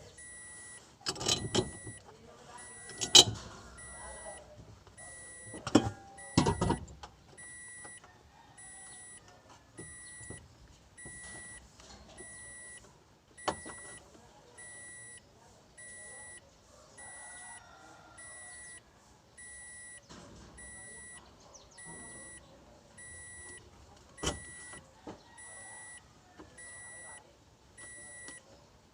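A high electronic beep repeating evenly, about one beep every second and a bit. Several loud metallic clanks and knocks come in the first few seconds, with two more single knocks later.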